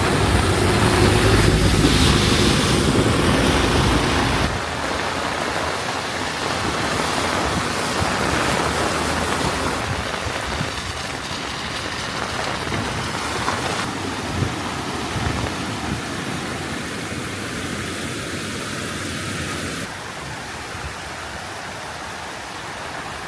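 Heavy rain falling, a steady hiss of rain. For the first four seconds or so a low engine hum runs under it, then cuts off.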